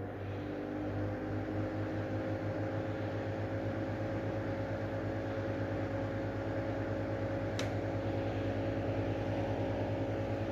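Brand-new Lanson Style 2 exhaust fan running, its motor winding up to speed over about the first second and then holding a steady whir over a fluttering motor hum. A single brief tick about seven and a half seconds in.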